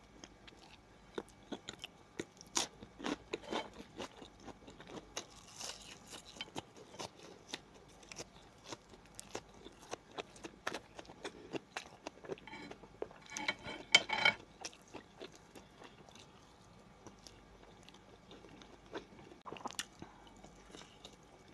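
Close-miked eating: biting and chewing a crunchy bread substitute with a mouthful of food, heard as irregular sharp crunches, clicks and smacks, with a louder run of crunching about two-thirds of the way through.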